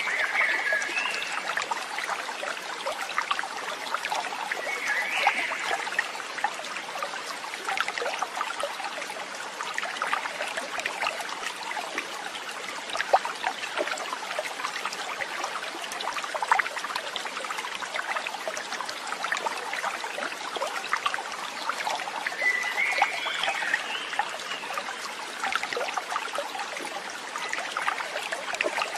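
Small stream trickling and babbling over stones, steady throughout, with three brief chirps, at the start, about five seconds in, and near twenty-three seconds.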